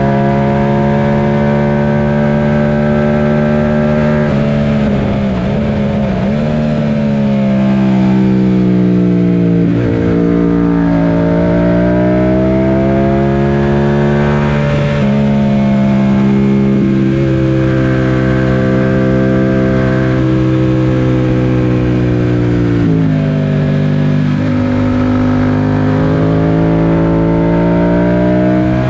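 Yamaha FZ-07's 689 cc parallel-twin engine run hard on a race track, its pitch climbing under acceleration through the gears. The pitch drops sharply several times as the bike brakes and downshifts for corners, over steady wind rush.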